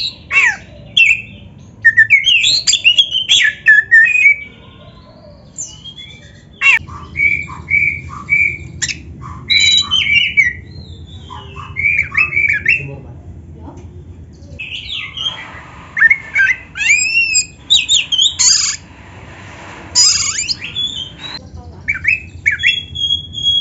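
Oriental magpie-robin (kacer) singing a loud, varied song of whistled phrases, repeated notes and harsher rasping calls in bursts with short pauses, over a low steady hum.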